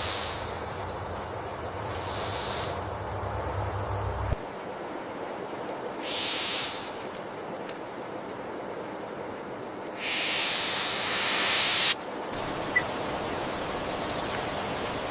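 Several bursts of loud hissing, each about one to two seconds long, over a steady background hiss, with a single short tick about three quarters of the way through.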